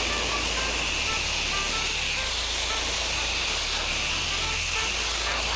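Steady hiss of a pressure washer spraying water, with the washer's motor humming low underneath. Faint background music plays.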